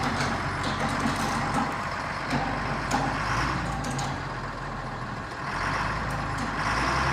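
Heavy diesel engine running steadily, with a few sharp clicks and knocks over it.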